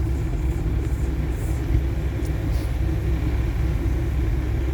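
Steady low rumble of a truck's running engine and cab noise, heard from inside the cab.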